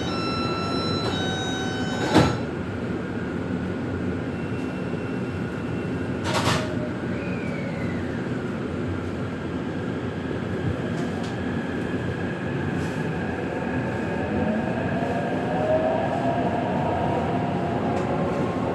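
Inside a Taipei Metro C381 train: the door-warning chime ends and the doors shut with a knock about two seconds in, then the train pulls away, its traction motors giving a whine that rises in pitch over the last few seconds.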